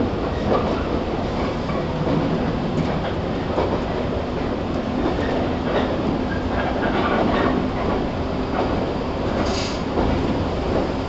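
Running sound inside the motor car of a 115 series 1000-subseries electric multiple unit (KuMoHa 115-1005): steady rumble of wheels and running gear with the clickety-clack of rail joints. A low steady hum comes in through the middle, and a short hiss near the end.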